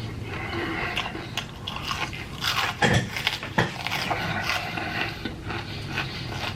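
Chewing and crunching food close to the microphone, with irregular clicks and crunches.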